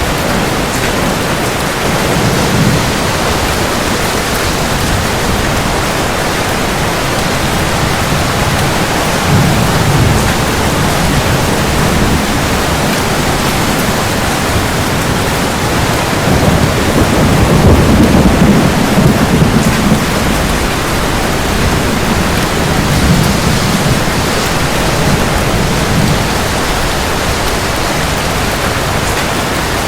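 Steady rain with thunder rumbling low several times, the longest and loudest roll about two-thirds of the way through.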